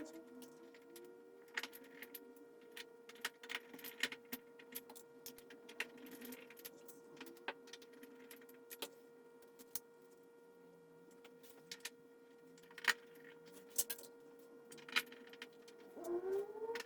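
Scattered light clicks and taps of small parts and tools being handled during a TV repair, over a faint steady electrical hum, with a short rising sound near the end.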